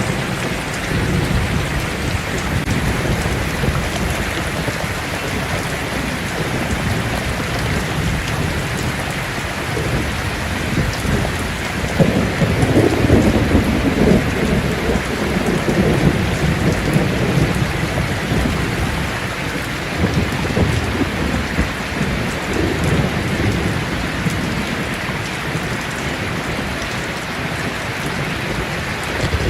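Heavy rain drumming steadily on a tin roof, with rolling thunder that swells into a deep rumble about twelve seconds in and fades away a few seconds later, then rumbles more softly again past the twenty-second mark.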